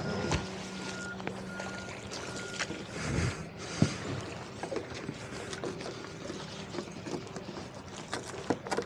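Boat on the water with its engine running: a steady hum under a wash of water and wind noise, with scattered sharp knocks, a loud one near the end.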